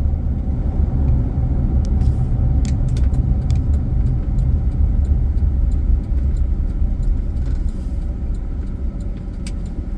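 Inside a moving car: a steady low rumble of engine and road noise, with scattered light clicks and rattles.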